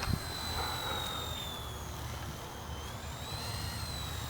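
Syma F3 fixed-pitch RC helicopter's electric motor whining in flight; the whine dips a little in pitch partway through and climbs back near the end.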